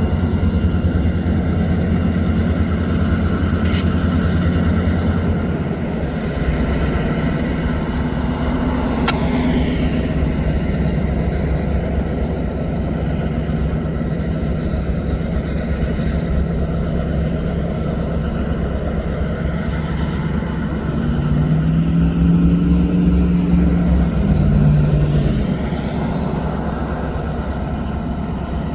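Steady low rumble of a running vehicle engine. About two-thirds of the way through, a heavier engine tone swells up, then drops away a few seconds later; this is the loudest part.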